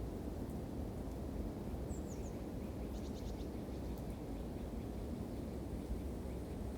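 Campfire burning with a steady low rumble and a few faint crackles. A small bird chirps briefly about two seconds in, then gives a quick run of about five short notes about a second later.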